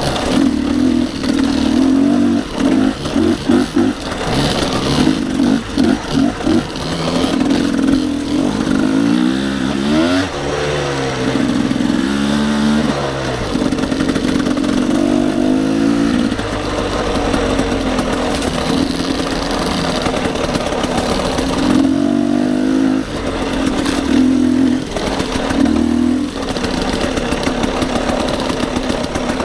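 Dirt bike engine revving up and down with the throttle while riding, in short on-off blips for the first several seconds, then in longer, steadier pulls.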